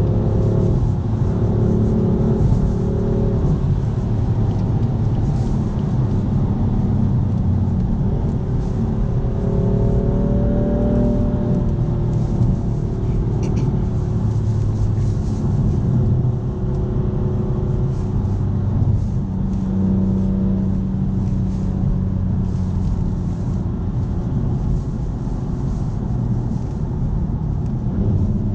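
BMW M4 Competition's twin-turbo straight-six heard from inside the cabin under way, its note rising and falling as the car accelerates and eases off, over a steady low rumble of tyre and road noise.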